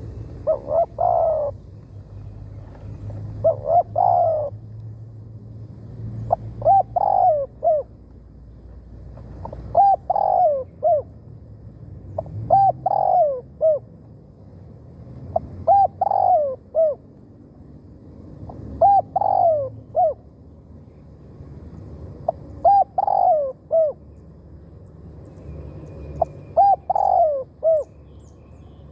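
Spotted dove cooing: a short phrase of several coo notes, repeated about nine times, roughly every three seconds.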